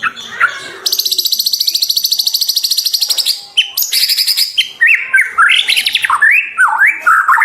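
White-rumped shama (murai batu) singing: a fast, even trill lasting about two seconds, followed by a string of varied slurred whistles that rise and fall in pitch.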